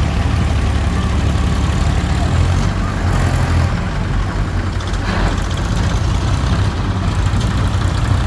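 Tractor engine running steadily with a deep, low-pitched sound.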